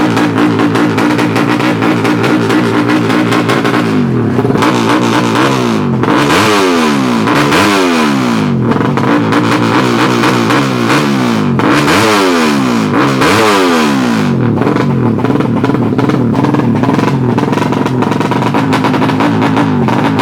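Tuned 200cc underbone drag-bike engine running loud and then revved repeatedly, its pitch climbing and dropping sharply several times in the middle before settling back to a steadier note. Some music is mixed in underneath.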